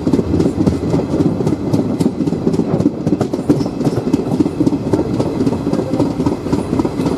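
Train running along the track, heard from aboard: a steady rumble with a rapid, irregular clatter of wheels over rail joints.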